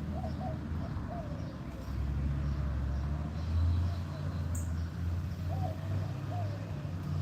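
Doves cooing in short low notes, a few times near the start and twice more near the end, with a faint series of high chirps from small birds. Under them runs a steady low rumble.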